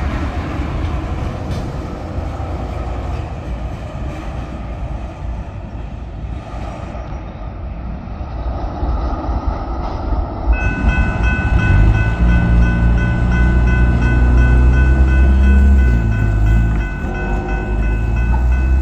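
Norfolk Southern freight train rolling past. About ten seconds in, a set of steady high-pitched tones starts abruptly and holds, over a louder, deeper rumble.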